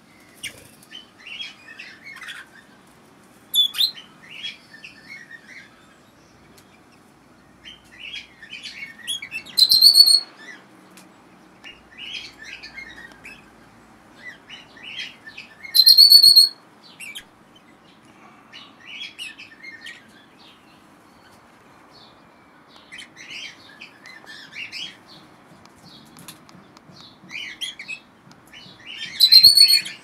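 Aviary birds, red-rumped parrots among them, chirping in short scattered bursts, with three loud, high whistled calls about ten, sixteen and twenty-nine seconds in.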